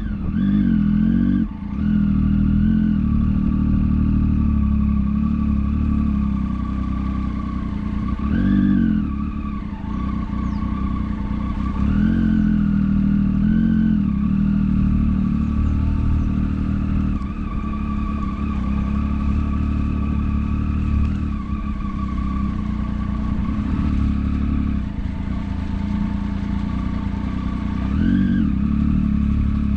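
Motorcycle engine running under way, with a steady drone that picks up revs several times: about a second in, around nine and twelve seconds, and again near the end.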